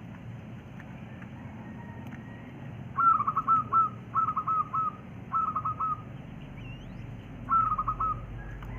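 Wild quail calling: four short runs of quick whistled notes, each note falling in pitch, with a steady low hum behind.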